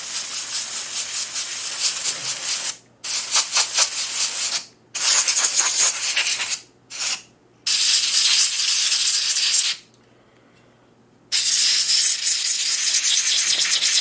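Can of compressed air duster blowing water and debris out of a disassembled spincast fishing reel: a loud hiss in about six bursts of one to three seconds each, with a short puff around seven seconds in and a longer pause near ten seconds.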